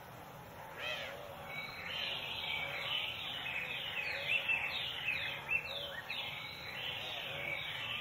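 Several wild birds calling together: a busy run of quick, high chirps that slide downward, densest from about two to six seconds in, over softer low calls that repeat about once a second.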